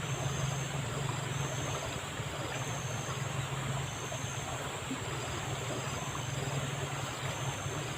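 Fast river current rushing steadily, a constant hiss of water with a low rumble that swells and eases. A faint high-pitched call repeats about once a second above it.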